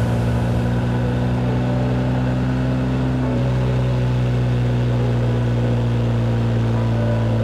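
Motorcycle engine running at a steady cruising speed, recorded from the bike while riding, with its pitch dropping slightly about three and a half seconds in.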